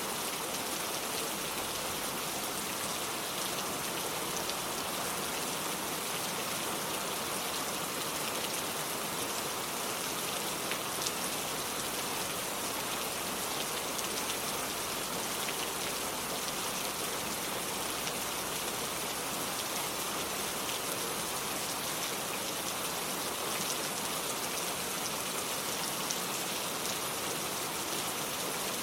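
Steady rain falling, an even hiss with individual drops ticking through it now and then.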